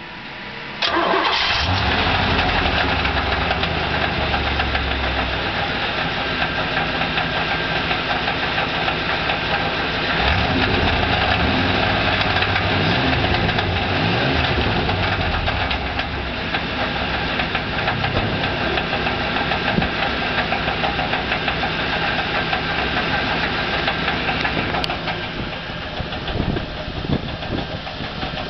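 1991 Pontiac Trans Am V8 cranked and started, catching about a second in, then running with the engine speed wavering up and down for a few seconds midway before settling at idle. This is the running engine in which an abnormal noise from the catalytic converter is to be heard, typical of a loose or broken catalyst substrate rattling inside its shell.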